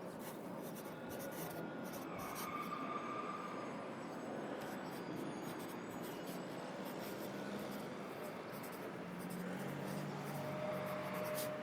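Pencil writing on paper, a quick run of short scratchy strokes, over a steady city-traffic background.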